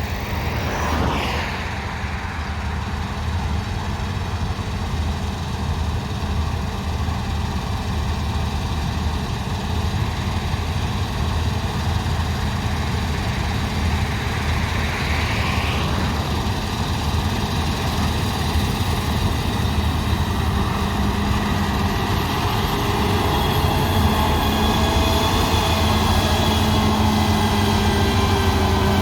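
Combine harvester's diesel engine and threshing machinery running steadily with a heavy drone. Two brief swelling hisses pass, about a second in and about halfway through. Near the end a second engine tone rises and grows louder.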